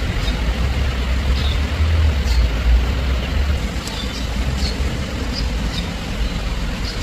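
Short high bird chirps, repeated about once a second, over a low steady rumble that is heaviest in the first half.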